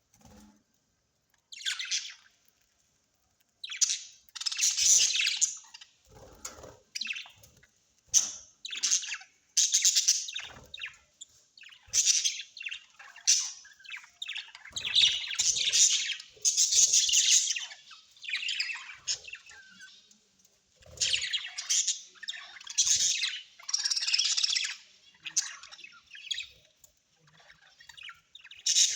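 Parrots chattering and squawking in a string of harsh, high calls that come in bursts of half a second to about two seconds, with short pauses between them.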